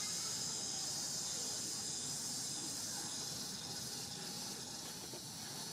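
A steady high-pitched hiss, even throughout, with no clear individual events.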